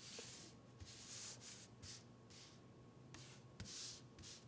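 Paper craft cutouts being handled and slid across a tabletop: faint, short rustling swishes, several in a row, with a light tap about three and a half seconds in.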